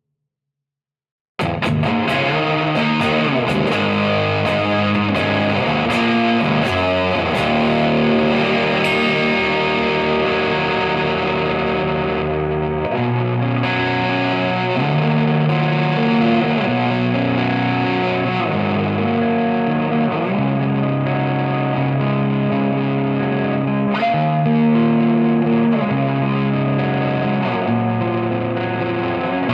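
Gibson Les Paul with humbucker pickups played through a Third Eye overdrive pedal into a Marshall amp: distorted electric guitar riffs and chords. It comes in abruptly about a second and a half in, after silence.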